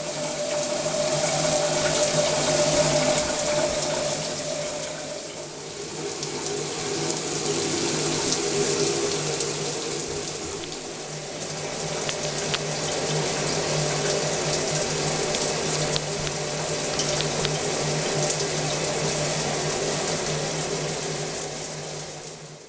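8-inch square rain shower head running, its water falling as a steady rush like heavy rain, with a low steady hum underneath.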